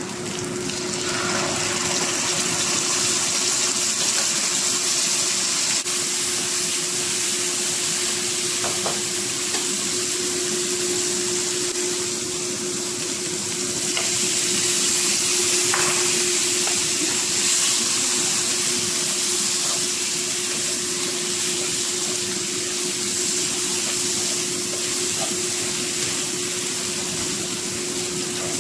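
Spice paste with lemongrass sizzling in hot oil in a non-stick wok while being stirred. Chicken pieces are tipped in from a bowl about halfway through, and the frying goes on steadily, a little louder for a few seconds after. A steady low hum runs underneath.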